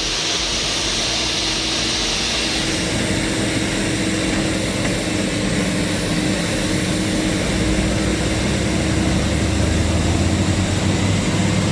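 Heavy off-road vehicle's engine running with a steady drone, its low rumble growing a little louder in the second half.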